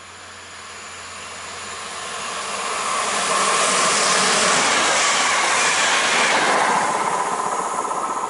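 A passenger multiple-unit train passing through a station without stopping. Its wheel-and-rail noise builds over about three seconds, holds at its loudest with a steady whine as it goes by, then begins to fade near the end.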